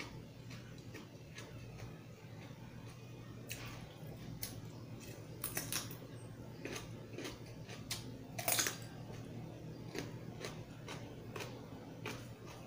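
Crunching bites into a raw cucumber and close-up chewing, a scatter of sharp crisp crunches with the loudest cluster about two-thirds of the way in, over a low steady hum.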